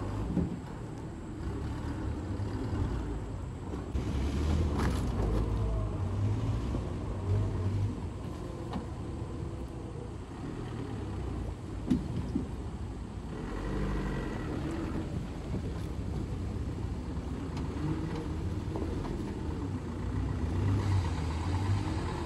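Loaded truck engine running hard, its pitch rising and falling as it works, with one short knock about twelve seconds in.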